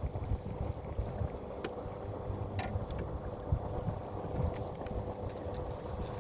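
Boat motor running steadily with a constant hum, over a low rumble of wind and water, with a few light clicks.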